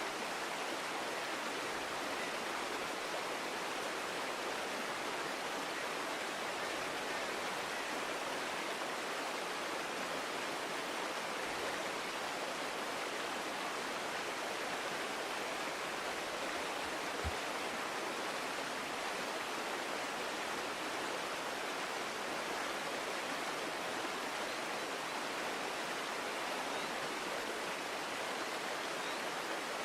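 Small forest creek running steadily, an even rush of water, with one brief low thump a little past halfway.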